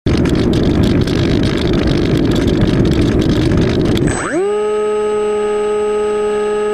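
Loud rushing noise that stops suddenly about four seconds in, giving way to a steady electronic tone with overtones that glides up and then holds.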